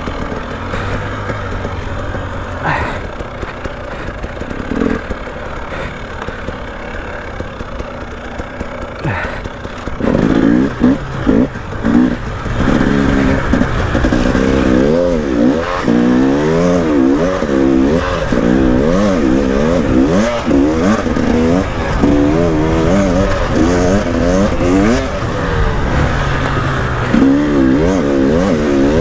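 KTM two-stroke enduro motorcycle engine under way off-road. It is fairly steady for the first ten seconds, then louder, with the pitch rising and falling over and over as the throttle is opened and shut.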